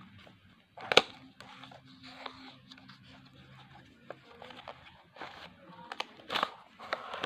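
Earphone packaging being opened and handled: crinkling and rustling of plastic and cardboard, with a sharp click about a second in and more crackles and clicks near the end.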